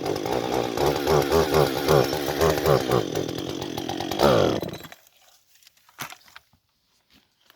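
Husqvarna 560XP two-stroke chainsaw running at high revs, its pitch wavering up and down. It revs up briefly just after four seconds in, then dies away to near silence about five seconds in, followed by a few faint clicks.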